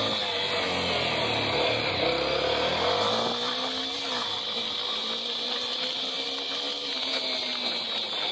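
Small motorcycle engine running while the bike is ridden, its note shifting about three seconds in and then rising and falling gently with the throttle.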